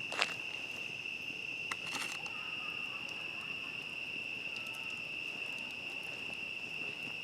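Crickets chirping in a steady, high, unbroken trill. A sharp campfire pop comes just after the start, with a few smaller crackles about two seconds in.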